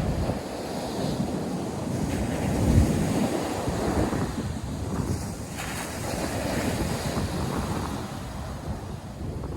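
North Sea surf washing onto a beach in a steady rush, swelling about three seconds in. Wind buffets the microphone throughout.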